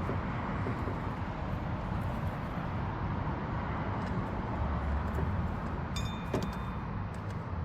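Steady low outdoor rumble with faint small clicks of hand tools working on the engine. About six seconds in, a metal tool clinks against metal with a short ring.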